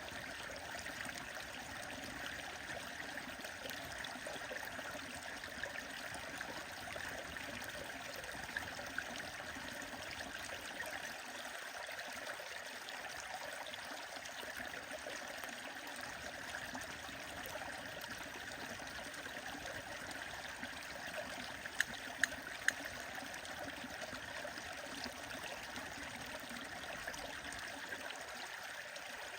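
Stream water running steadily, with a few sharp pops from a crackling wood fire: two close together about a third of the way in, and three in quick succession about three-quarters of the way through.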